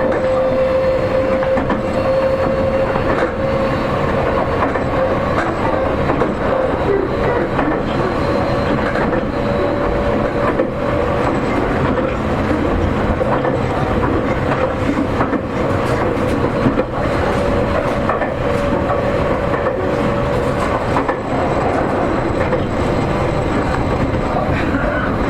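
Seibu 40000 series electric train running, heard from inside a passenger car: the Toshiba permanent-magnet synchronous traction motors and their VVVF inverter give a steady whine that rises slightly in pitch over the first several seconds and then holds, over rumbling wheel-on-rail noise and clicks from rail joints.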